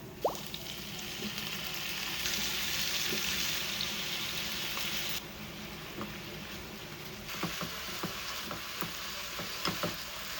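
Food sizzling in a frying pan, the hiss rising for a few seconds and then dropping, with a few light clicks of a utensil against the pan.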